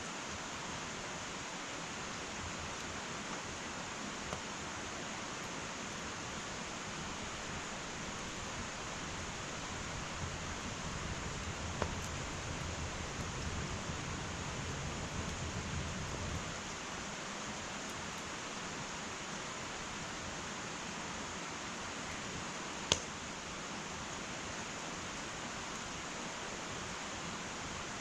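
Wood fire in an irori hearth burning with a steady hiss, broken by a few sharp pops of the burning wood, the loudest about 23 seconds in. A soft low rumble rises for a few seconds in the middle.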